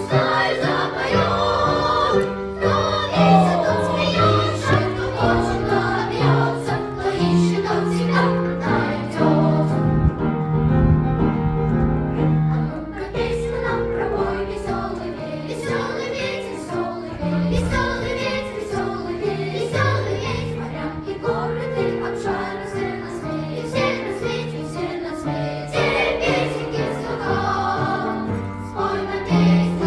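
A children's choir singing in unison over an instrumental accompaniment that holds low bass notes.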